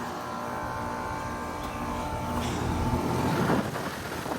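2015 Bryant Legacy line 5-ton heat pump running steadily just after start-up, its compressor and outdoor fan making a constant hum with a thin steady whine.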